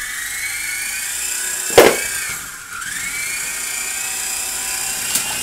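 Toy RC helicopter's small electric motors and rotors whining in flight. There is a sharp knock about 1.8 s in, and around two and a half seconds in the whine sags lower, then climbs back up as the throttle comes up again.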